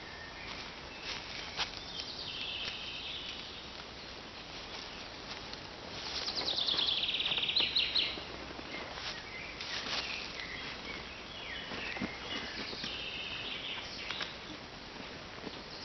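Songbirds singing: several separate phrases of rapid, repeated high notes, the loudest lasting about two seconds from around six seconds in, with a few scattered light clicks.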